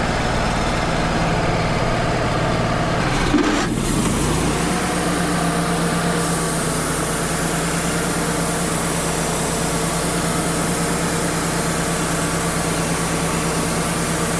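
Wood-Mizer LT35 portable sawmill's engine running steadily. Its note shifts about three to four seconds in, then it runs on at a steady pitch.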